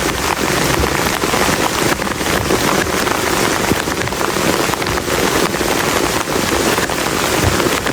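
Heavy rain falling steadily on a plastic tarp shelter: a dense, even patter of drops striking the sheet, with no lulls.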